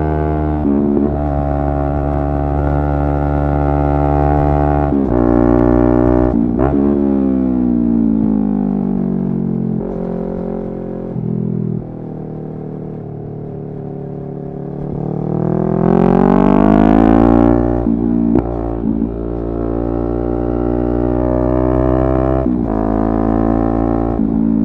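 Yamaha R3's parallel-twin engine under way: the revs climb and break briefly at each gear shift, fall away as the bike slows, and run low for a few seconds near the middle. Then the engine pulls hard up to its loudest point about two-thirds in, with wind hiss, and shifts up again.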